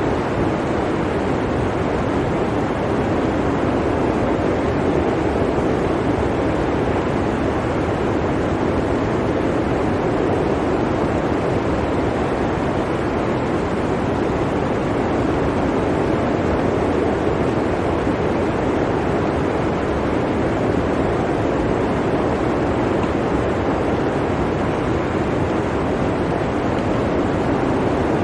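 Blizzard wind blowing as a steady, full rush of noise that slowly swells and eases.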